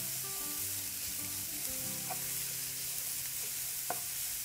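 Grated carrots with ginger and garlic sizzling in hot oil in a non-stick pan while being stirred with a wooden spatula, with a couple of light spatula clicks.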